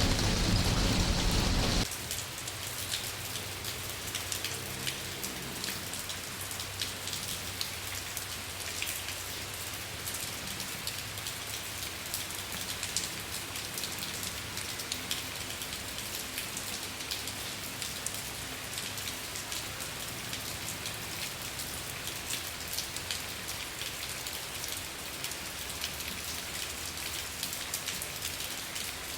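Steady rain pattering on a surface, a dense hiss of many fine drops. A louder, deeper rush in the first two seconds cuts off suddenly, leaving a lighter, even rain.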